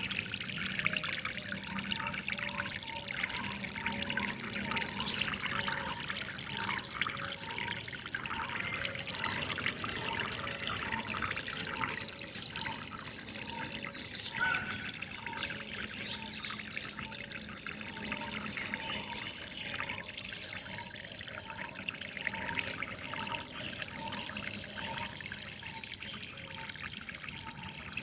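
Water trickling and splashing in a steady flow. Through it, a short low note repeats evenly, about one and a half times a second.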